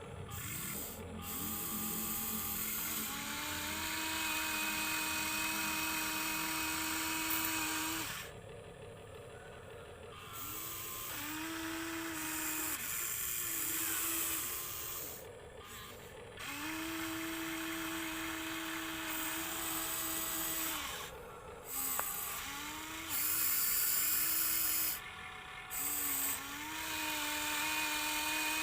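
Small electric motors of radio-controlled toy construction vehicles whining with a gritty gear rasp, in repeated runs of a few seconds each; the pitch rises briefly as each run starts, then holds steady until it stops.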